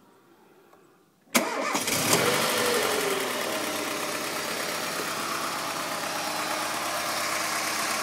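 Ford Sierra 2.0 EFi DOHC four-cylinder engine starting about a second in after a quiet moment. It catches almost at once, the revs flare up and settle back over the next second or two, and then it idles steadily.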